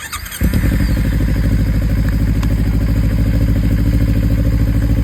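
2017 Kawasaki Ninja 300's parallel-twin engine being started: the electric starter cranks briefly, the engine catches about half a second in and then idles steadily. It is run with the radiator cap off to bleed air bubbles from the freshly filled cooling system.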